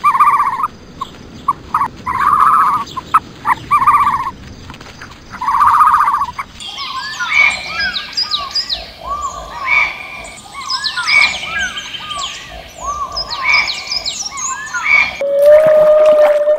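A string of animal calls. First comes a repeated trilling, croak-like call, each call under a second long, every second or two. From about six seconds in, many quick birds' chirps overlap. Near the end a long, steady whale call begins.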